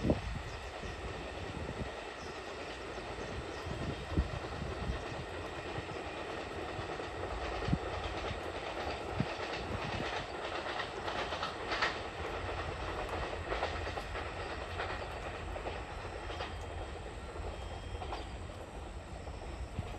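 Freight train of hopper wagons rolling past, a steady rumble of wheels on rail with a few sharp clacks as the wheels cross rail joints.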